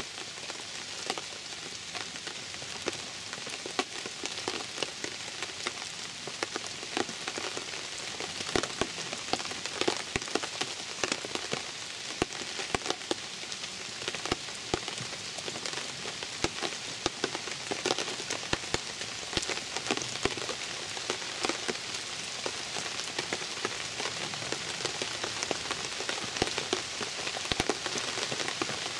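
Steady rain falling, with frequent sharp individual drop hits over the hiss.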